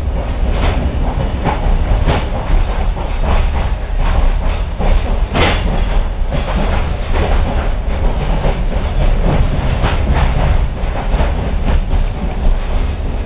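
Passenger train running along the track, heard from aboard a coach: a steady low rumble with repeated clicks of the wheels over rail joints, one louder clack about five seconds in.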